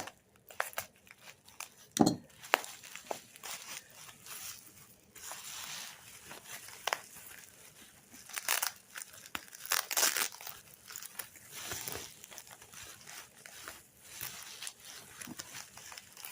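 Packing paper crinkling and rustling as a wrapped item is unwrapped by hand, in irregular crackles, with one sharp knock about two seconds in.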